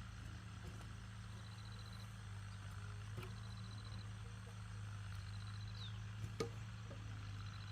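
Outdoor rural ambience: a steady low hum with a short high-pitched trill repeating about every one and a half to two seconds, and a sharp knock about six and a half seconds in.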